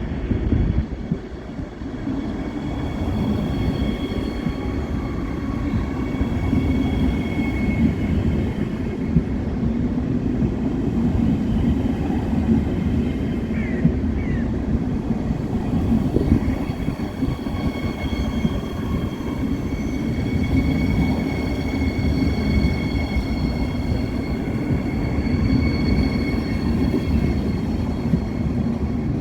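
Train moving on the station tracks: a steady low rumble of wheels and running gear, with faint thin high whining tones over it.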